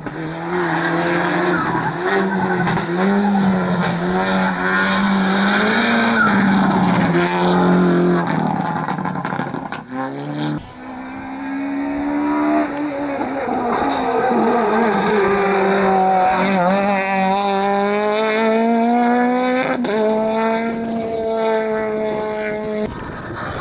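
Rally car engines at full throttle on a hillclimb stage, revving up and dropping back with each gear change, with some tire noise. About ten seconds in the sound cuts abruptly to another car, which climbs up through several gears.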